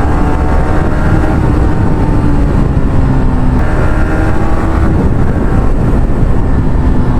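Motorcycle engine running at a steady cruise under wind rush on a helmet-mounted microphone, its note holding nearly level and easing slightly lower now and then.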